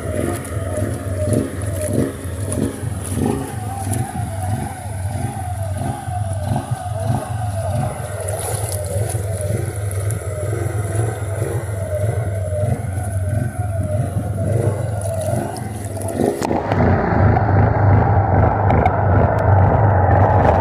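Suzuki Eiger 400 ATV's single-cylinder engine running and revving up and down over and over while the quad is in deep, fast flood water. About 16 seconds in the sound abruptly turns muffled into a louder low rumble, the high sounds cut off.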